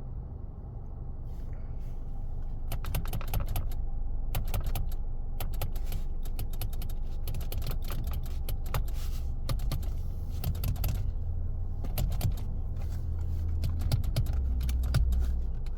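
Repeated clicking as the horn pad of a 2022 Mitsubishi Outlander is pressed over and over, with no horn sounding: the horn is not working. The clicks come in quick clusters from about three seconds in, over a low steady rumble.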